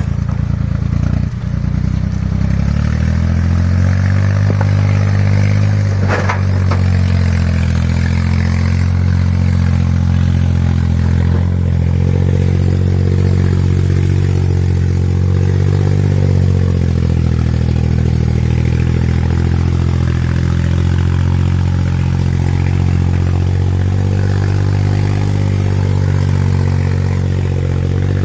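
A working machine's engine running steadily, its pitch settling higher about three seconds in. There is a sharp knock about six seconds in, and some scraping and clattering.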